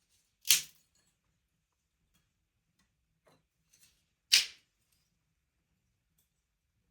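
Two sharp knocks, about four seconds apart, with a few faint small clicks between them.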